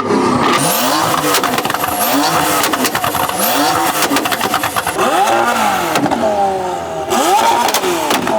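Performance car engines revved hard again and again, each rev rising and falling in pitch about once a second, with rapid crackling pops from the exhaust typical of a two-step launch limiter.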